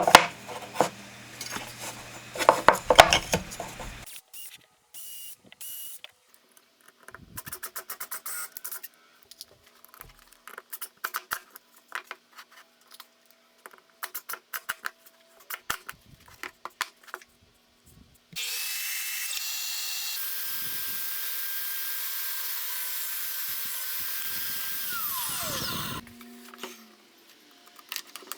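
Woodworking shop sounds: scraping, then scattered knocks and clicks of handling. About two thirds of the way through, an electric power tool's motor runs steadily for about eight seconds and then winds down with a falling whine.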